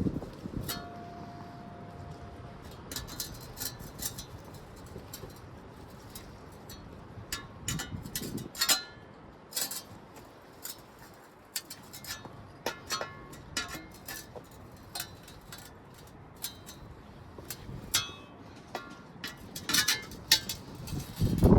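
Patio pavers clinking and knocking against each other at irregular intervals as they are set down and nudged into place, each contact ringing briefly. A short steady tone sounds about a second in.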